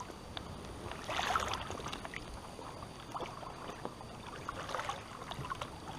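Water sloshing and lapping around a wader moving through waist-deep creek water, with a cluster of small splashes about a second in.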